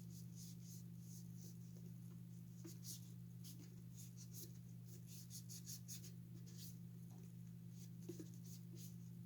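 Faint, irregular scratchy scrubbing strokes, a few each second, from cleaning the plastic toy over a steady low hum.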